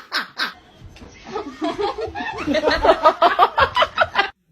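A person laughing in a run of quick, repeated pulses that builds about two seconds in and cuts off abruptly near the end.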